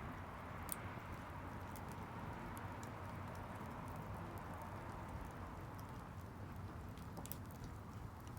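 Campfire burning: a steady low rush with sharp crackles and pops scattered irregularly, one sharper pop just under a second in.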